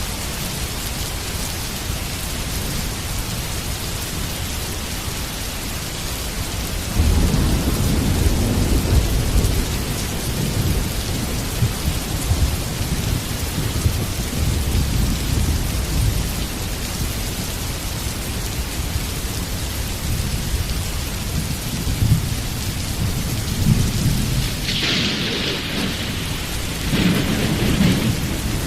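Heavy rain falling steadily, with thunder rumbling in suddenly about seven seconds in and again near the end.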